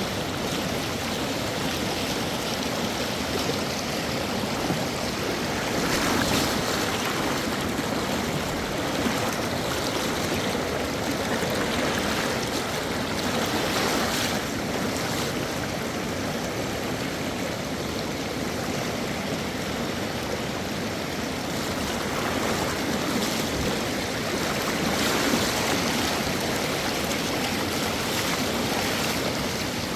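Fast mountain river rushing steadily, swelling briefly a few times.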